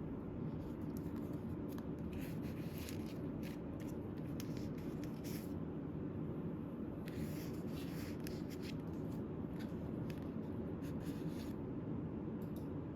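Paper and cardstock rustling and sliding in short irregular bursts as a handmade paper folio is handled and its cards flipped, over a steady low hum.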